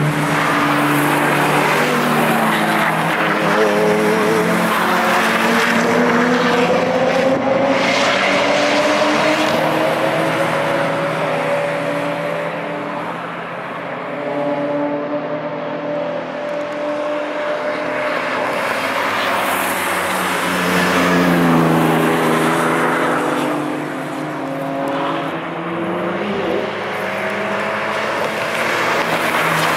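Cars passing one after another at speed on a race track, their engines revving hard, the pitch sweeping up and then down as each car goes by.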